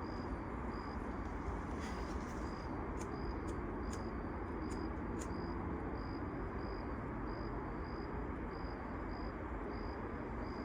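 A cricket chirping steadily, one short high chirp about every two thirds of a second, over a constant low background rumble, with a few faint clicks.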